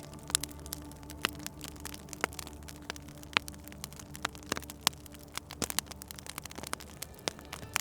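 Wood fire in a fireplace crackling, with irregular sharp pops every fraction of a second, over a low steady hum.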